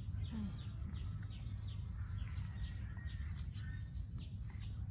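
Small birds chirping over and over in short high calls, two or three a second, over a steady low rumble.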